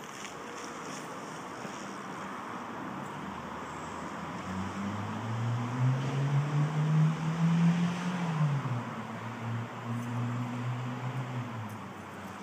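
A motor vehicle's engine running nearby, coming in about four seconds in, rising a little in pitch, then dropping and fading out near the end, over a steady outdoor hiss.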